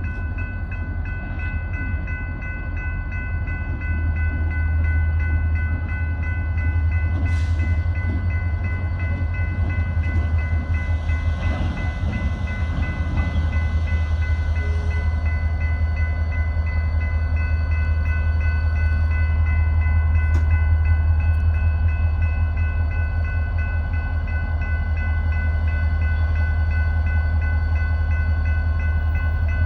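EMD GP40-2 diesel-electric locomotives with turbocharged V16 diesels running, a deep steady engine rumble with a steady high whine above it. The sound grows a little louder about four seconds in, and there is a brief hiss around seven seconds.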